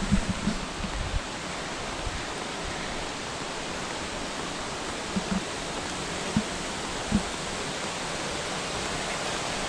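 Waterfall: falling water rushing steadily, with a few soft low thumps in the first second and again around the middle.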